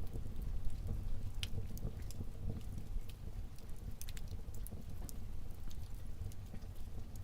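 Wood fire burning in a fireplace: a low steady rumble with scattered, irregular sharp crackles and pops, several a second at times.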